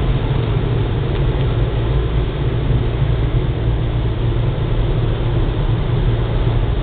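Car wash machinery running steadily: a loud, even low hum with a rushing noise over it.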